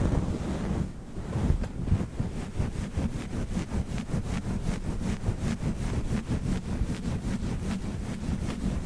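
Fast, rhythmic rubbing and scratching on a fluffy microphone windscreen, heard as a muffled rumble. The strokes settle into an even rhythm of about five or six a second, starting about two seconds in.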